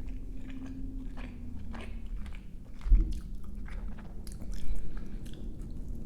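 Close-miked biting and chewing of crunchy food, many short crackling crunches, with a louder low thump about halfway through.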